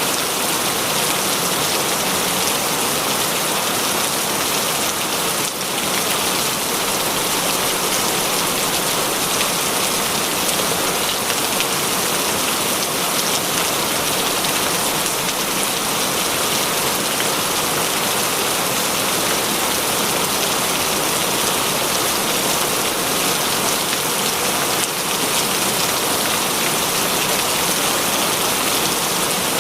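Heavy rain falling steadily, a dense, even hiss of many drops on a surface with no let-up.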